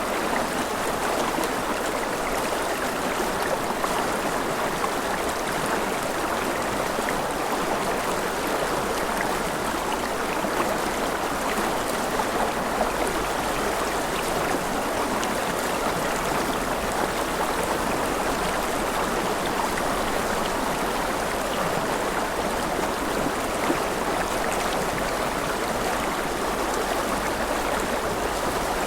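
Mountain river rushing steadily over rapids, an even, unbroken wash of flowing water.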